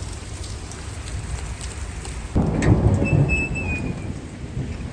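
Heavy rain falling steadily. About two and a half seconds in, a sudden loud thunderclap breaks and rumbles for a second or two.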